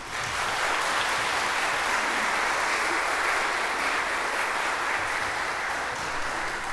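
Audience applauding steadily after a song, easing off slightly near the end.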